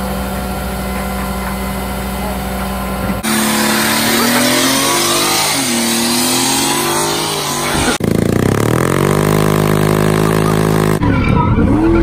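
Car engines in a run of cut-together clips that change abruptly every few seconds: a steady engine note, then revving with the pitch rising and falling over rushing noise, then a rev dropping away and settling.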